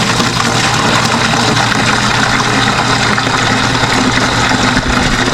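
A steady machine hum under a constant hiss, unchanging throughout, like a motor or pump running.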